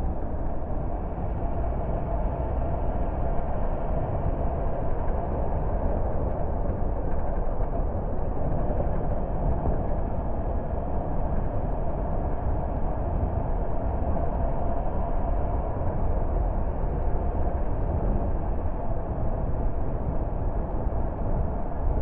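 Car driving at a steady pace: continuous engine and tyre road noise, with no sudden sounds.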